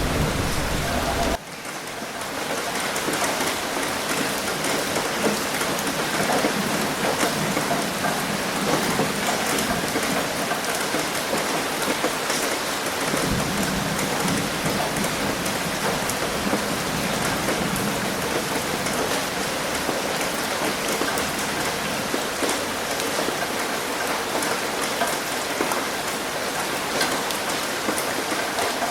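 Rain hitting a roof: a steady, dense patter of many separate drops ticking. About a second and a half in, a heavier rain sound with a low rumble cuts off abruptly, and the roof patter takes over.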